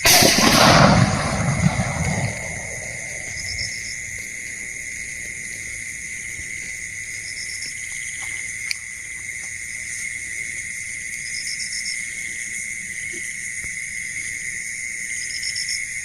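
Steady night chorus of insects, a shrill high ringing with short chirps every few seconds. A loud rushing noise covers the first two seconds or so, then dies away.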